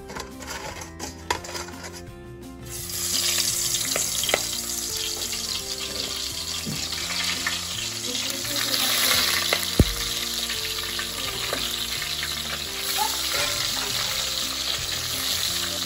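Salt-and-turmeric-coated prawns sizzling in hot oil in a wok. The sizzle starts suddenly about three seconds in, after a few light clicks, and holds steady, with one sharp knock near the middle.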